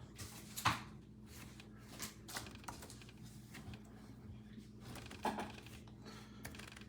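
Scattered light clicks and knocks of small objects being handled, the sharpest about a second in and another near the end, over a steady low electrical hum.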